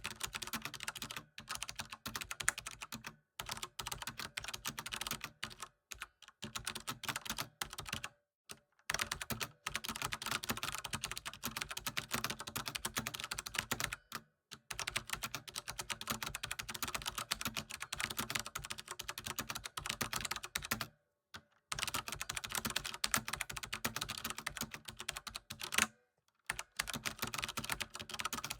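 Computer keyboard typing: fast, continuous key clicks in runs of a few seconds, broken by brief pauses.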